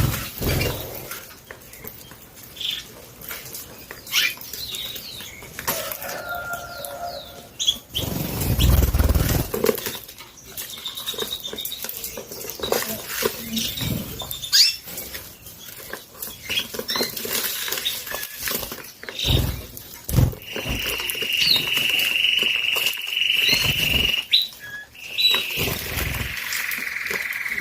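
Domestic canaries fluttering and hopping about their cages, with many short wing flaps and knocks and scattered short high chirps. About two-thirds of the way in, a canary holds a long, steady high note for several seconds, and another follows near the end.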